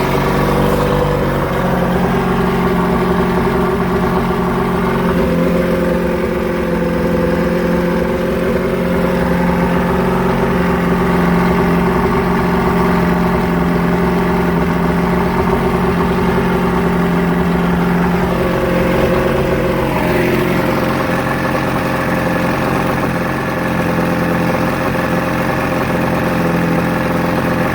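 Johnson 115 HP four-cylinder two-stroke outboard running, really loud because it is out of the water and has no water around the exhaust to muffle it. Its engine note steps a little about a second in and again around eighteen to twenty seconds in.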